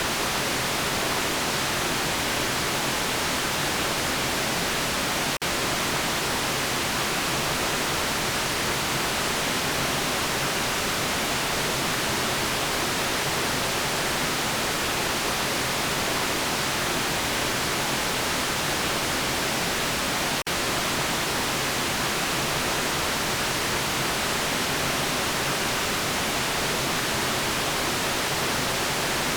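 Steady synthetic white noise, an even hiss with no changes, broken twice by a split-second dropout, about a fifth of the way in and about two-thirds through.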